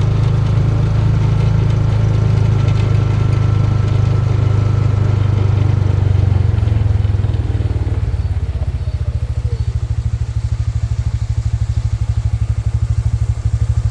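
A vehicle engine running steadily, then from about eight seconds in settling to a fast, even idle.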